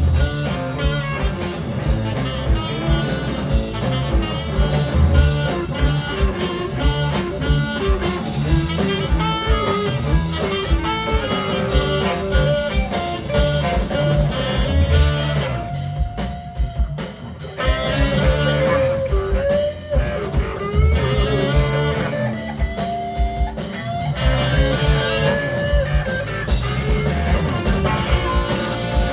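A band playing an instrumental break with no singing: a guitar carries the lead line over drums and bass, dropping back briefly about halfway through.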